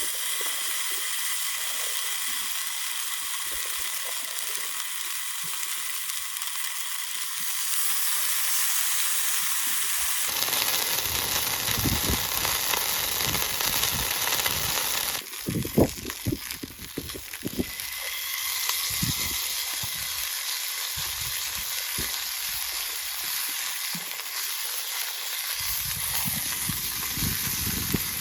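Food sizzling as it fries in a pan, a steady crackling hiss that changes abruptly a few times. Low irregular rumbles come and go under it in the second half, loudest in the middle.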